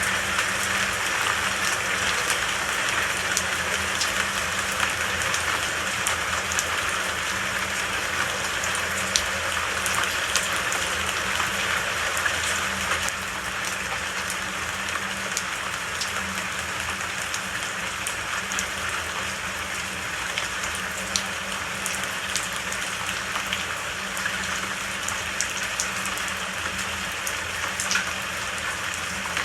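Steady rain falling in a forest, a constant hiss with scattered sharp drops ticking through it. It becomes a little quieter just before halfway through.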